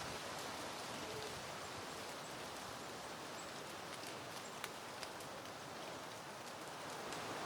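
Soft wind moving through blooming peony plants, a steady rustle with a couple of faint ticks about two-thirds of the way in.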